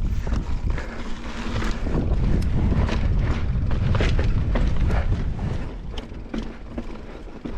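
Mountain bike riding over slickrock: wind buffeting the microphone over the rumble of the tyres, with scattered clicks and knocks from the bike rattling. The rumble is heaviest through the middle and eases near the end.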